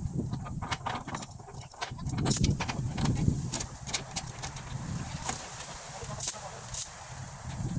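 An engine running low and steady under scattered metallic clinks and jangles, with a few sharper knocks, the loudest about two seconds in and two more near the end.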